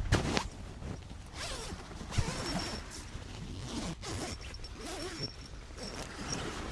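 A zipper being pulled in several short strokes, with rustling handling noise and a sharp knock at the very start.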